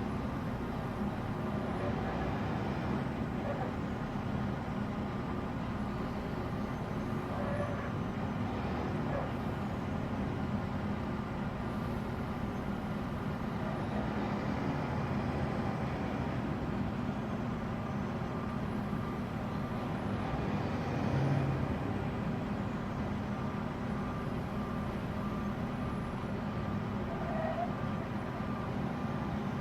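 A large truck's engine running steadily, with a slight swell about two-thirds of the way through.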